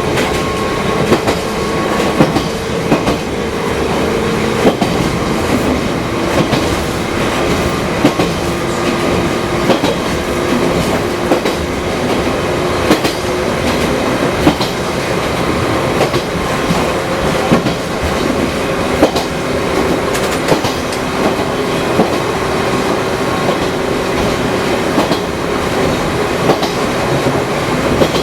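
Fukui Railway 200-series interurban car running along the line, its wheels clicking regularly over the rail joints. A steady hum steps in pitch under the running noise.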